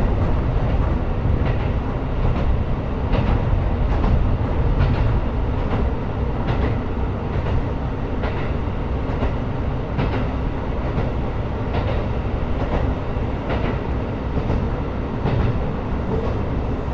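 JR Kyushu KiHa 125 diesel railcar running between stations: a steady low rumble of the engine and running gear, with the wheels clicking over rail joints every second or so.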